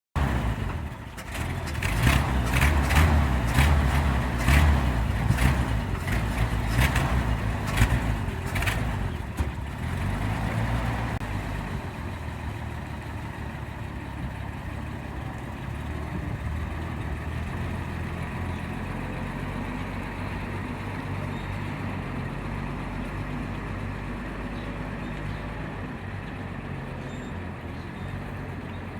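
Engine of a 1950 Chevrolet COE 5400 truck running. For about the first ten seconds it is loud, with a series of sharp pops or knocks over the low drone, then it settles to a steady, quieter run.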